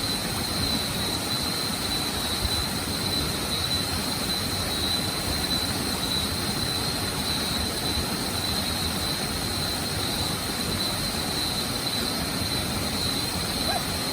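Waterfall roaring steadily, an even rush of falling water, with a thin steady high-pitched tone over it.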